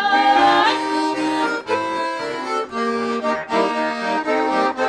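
Garmon (Russian button accordion) playing an instrumental interlude of a folk song in chords. A sung note held over from the verse ends within the first second.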